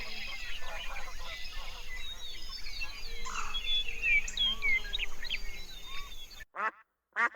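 Many small birds chirping and singing over one another in a dense chorus. About six and a half seconds in, the sound cuts off abruptly and a duck quacks twice.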